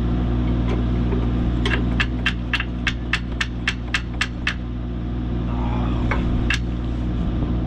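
A run of about ten sharp metallic clicks, roughly four a second, over the steady idle of an engine. One more click comes near the end.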